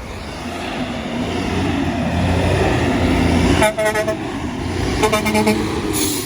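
A truck's engine rumbles louder as it comes past, and its horn sounds twice, short blasts about four and five seconds in. A brief hiss comes near the end.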